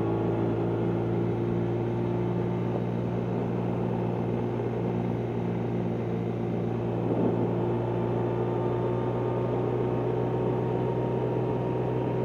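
1999 BMW R1100RT's flat-twin boxer engine running at a steady cruise, a constant even drone with no change in pitch, over a steady rushing noise.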